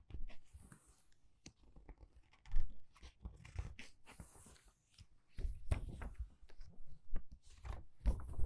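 Paper book pages being turned quickly by hand: a string of short papery flips, rustles and crackles, with a louder swish about two and a half seconds in and busier bursts of turning near the end.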